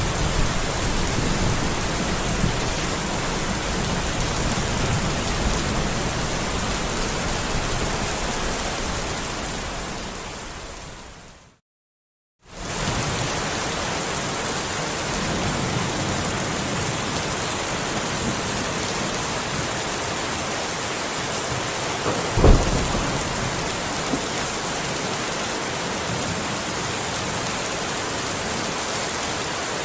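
Steady rain with low thunder rumbles. The rain fades out to about a second of silence before halfway and fades back in, and a short, loud low crack of thunder comes about three quarters of the way through.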